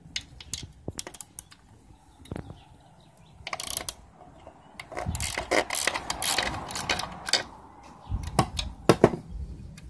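Ratchet wrench with a 10 mm socket clicking in quick runs while cap nuts are undone, with scattered separate metal clicks in between.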